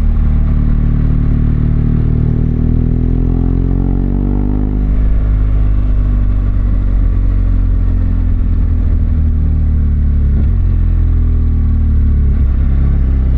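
BMW R1200GS Adventure's flat-twin engine under way, rising in pitch as the bike accelerates for about five seconds, then dropping back and running steadily.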